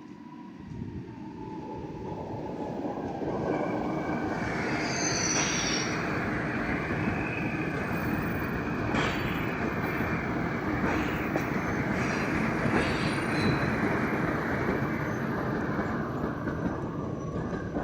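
A train rolling into the station: the rumble of its wheels on the rails builds over the first few seconds, then holds loud and steady. There is a brief high wheel squeal about five seconds in.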